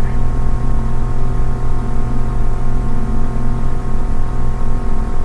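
A steady hum of several held tones over a hiss of noise, with no change in it.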